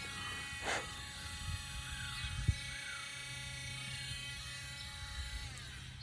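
Small handheld electric sander running with a steady buzzing hum while sanding a cutout, with one short knock about halfway through.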